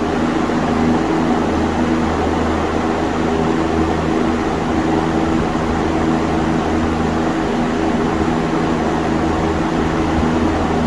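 Circa-1948 LAU Portable Cooler P-18 box fan with an FA Smith motor running on high speed: a steady motor hum under an even rush of air from the blades.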